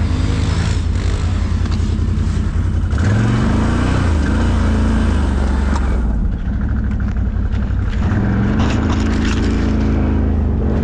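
ATV engine running under changing throttle: its pitch rises about three seconds in, drops back with a dip in level around six seconds, and climbs again, with a few sharp clicks near the end.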